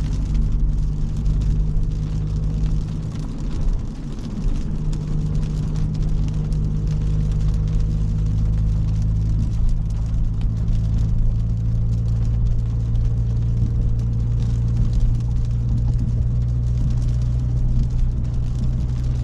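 Audi S5 with a catless downpipe and rear resonator delete cruising: a steady low exhaust drone and road noise heard from inside the cabin, with a brief dip about three to four seconds in. The owner blames the resonator delete for the droning while cruising.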